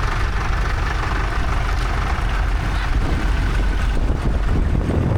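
Vintage tractor engine running steadily as the tractor drives past, a low, even engine sound.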